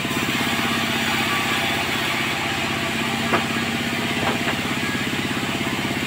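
Sawmill engine running steadily with an even, fast pulse, with a sharp knock about three seconds in and two more a second later.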